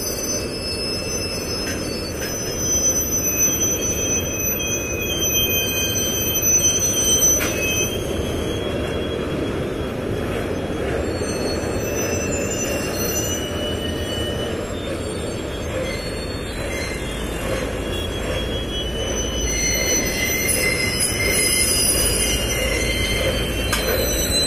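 Freight wagons loaded with rails rolling slowly, a steady low rumble with thin, high-pitched metallic wheel squeals coming and going.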